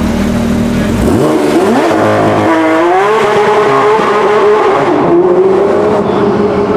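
A supercar's engine accelerating hard: after a low rumble, the pitch climbs for about two seconds, then holds a high, steady note, dipping briefly about five seconds in.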